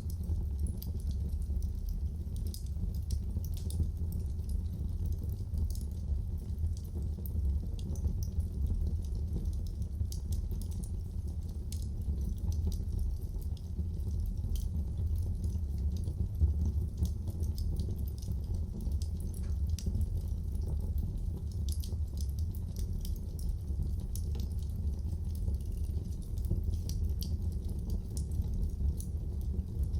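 Wood fire in a fireplace crackling, with frequent small irregular pops and snaps over a steady low rumble of the burning.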